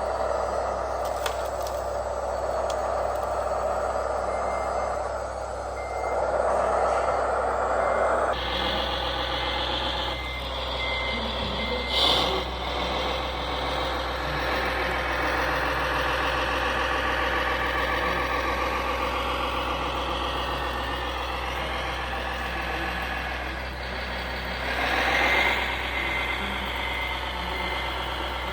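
Radio-controlled model trucks running, with a steady motor and gear sound and a repeated reversing beeper going in short regular beeps. There is a brief louder knock about twelve seconds in and a swell near the end.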